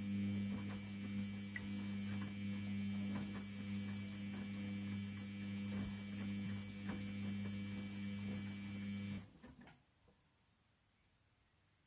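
Washing machine humming steadily with faint clicks, then cutting off abruptly about nine seconds in.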